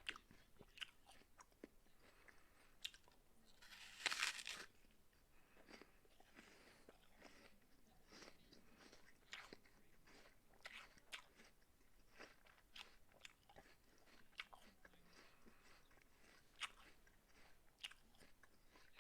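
A person biting into and chewing a raw apple. There is one loud, crisp crunch of a bite about four seconds in, then quieter, scattered crunches and clicks of chewing.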